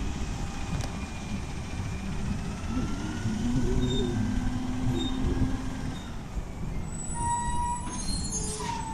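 Garbage truck running with a steady rumble and faint mechanical whines, with a higher steady whine coming in near the end.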